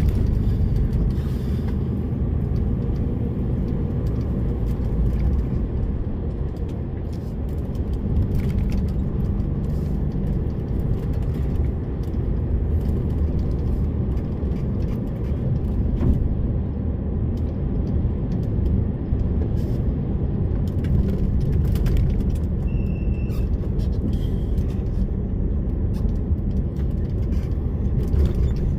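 DAF lorry's diesel engine running steadily under way, a low drone with road rumble, heard from the cab. Scattered light clicks and knocks, and a short high squeak about two-thirds through.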